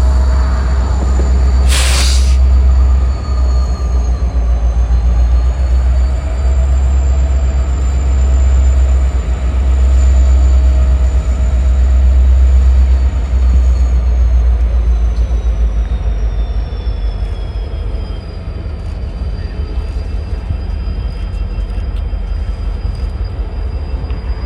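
A train rolling past, its cars rumbling steadily, with thin high wheel squeal drifting slowly in pitch. A single sharp click about two seconds in.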